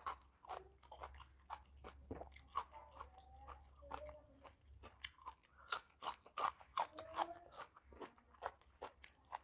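Close-up chewing of crunchy food: a quick run of crisp crunches with wet mouth sounds.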